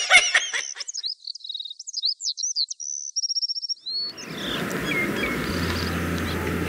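Birds chirping, short high calls and a quick trill, heard on their own for about three seconds. About four seconds in, a steady background hiss comes in, with a low hum joining it shortly after.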